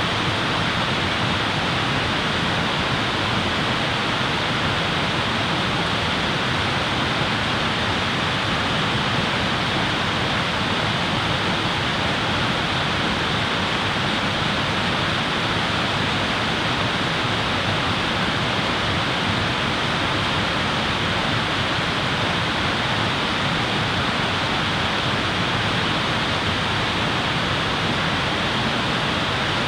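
Steady, even rushing noise that does not change, with no separate crackles or knocks.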